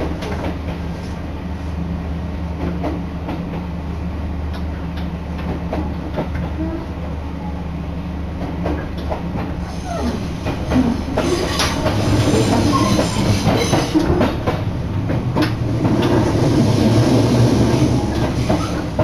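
An Abukuma Express electric train running, heard from inside the carriage: a steady low hum with clicks from the rail joints. It grows louder and fuller about ten seconds in.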